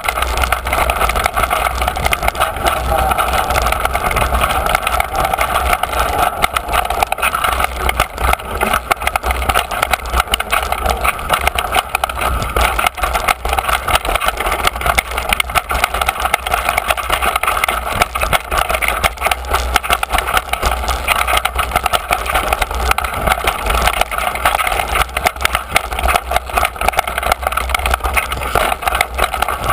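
Mountain bike riding down a rough dirt trail, picked up by a handlebar-mounted camera: a constant clatter of the bike and tyres over the ground with many small knocks, and a low wind rumble on the microphone.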